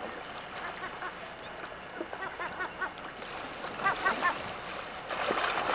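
Short, honk-like animal calls in quick runs, about five in a row a couple of seconds in and three more near the four-second mark, over a faint steady background hiss.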